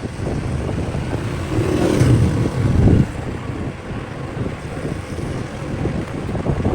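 Wind rushing over the microphone of a moving motorcycle, mixed with engine and road noise; a louder gust comes about a second and a half in and drops away suddenly a second and a half later.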